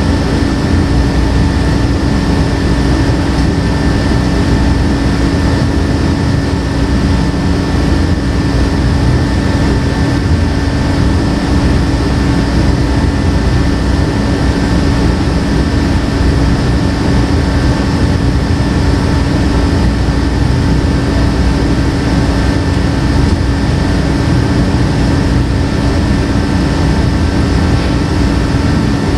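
Loud, steady drone of a running machine: a constant hum with a few fixed tones over a low rumble, unchanging throughout.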